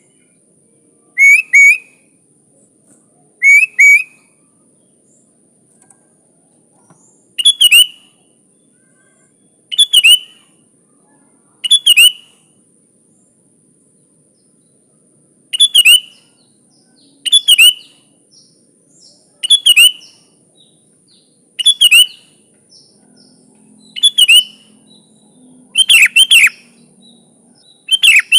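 Sooty-headed bulbul (kutilang) singing short, loud, bubbly phrases, one or two notes at a time, repeated about every two seconds. A faint steady high-pitched whine runs behind it.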